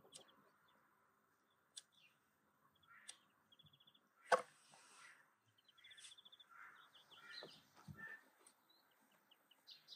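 Quiet outdoor background with small birds chirping, including a short rapid trill twice. A few scattered sharp knocks, the loudest about four seconds in.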